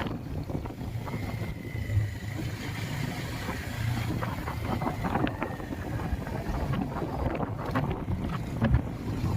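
Motorcycle on the move: a low engine drone under wind buffeting the microphone, with scattered knocks and rattles.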